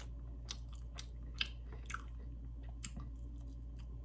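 A person chewing rotisserie chicken close to the microphone, with a few short wet mouth clicks scattered through it, over a steady low hum.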